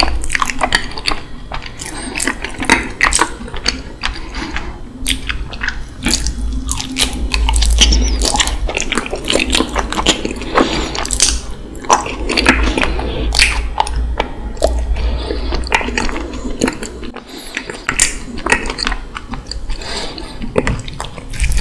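Close-miked chewing of a mouthful of raw honeycomb, with many irregular small clicks and smacks as the waxy comb is worked in the mouth.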